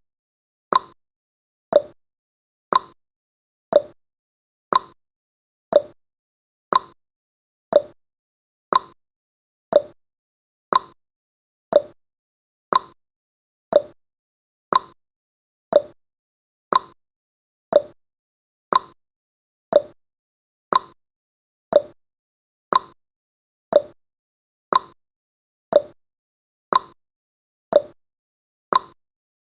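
Countdown timer's clock-tick sound effect: a short sharp tick once a second, evenly spaced.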